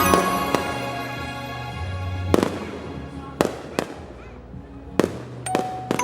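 Fireworks exploding: about six sharp bangs, each with a short echoing tail, spread over the second half, over soft instrumental music that thins out in the first couple of seconds.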